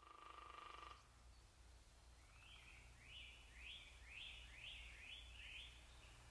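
Very faint sound over a low steady hum: a short buzzy tone in the first second, then a bird repeating a quick chirping note about seven times, roughly two a second.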